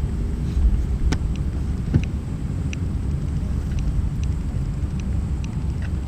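Steady low rumble inside the cabin of an Airbus A319 taxiing, with a few faint clicks and rattles and one brief knock about two seconds in.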